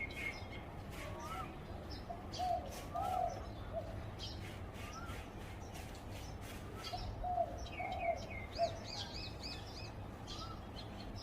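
Zebra dove cooing: two short runs of quick, repeated coo notes, one about a quarter of the way in and another past the middle. Other small birds chirp higher in pitch over a low steady hum.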